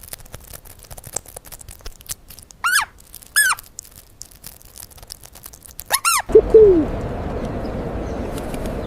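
A bird calling: three short, loud, arched calls, two about a second apart and a third a few seconds later, over faint scattered clicking. Then a lower, shorter call and a steady hiss of noise.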